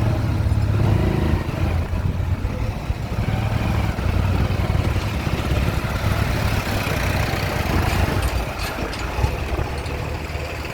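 Heavy machine's diesel engine running steadily, with no marked revving.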